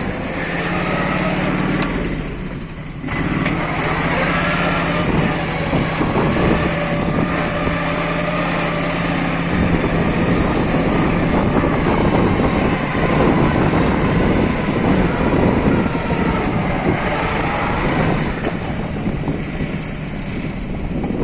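MTZ-132 mini-tractor's engine running steadily under load while pulling a disc harrow, with strong wind buffeting the microphone. The engine note dips briefly about two seconds in.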